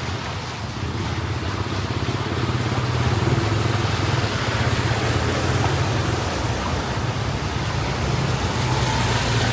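Traffic on a flooded street: vehicle engines running under a steady rushing wash of noise, growing louder about two seconds in.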